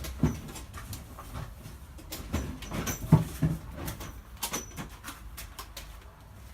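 Irregular clicks and knocks of tools and metal parts being handled on a workbench, loudest a little past the middle.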